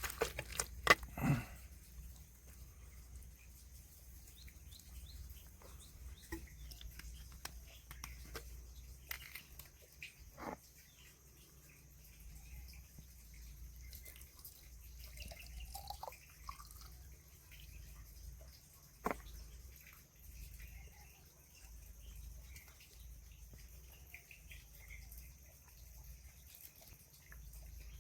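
Faint bird chirps over a quiet background, with a few sharp clicks or knocks near the start and twice more later on.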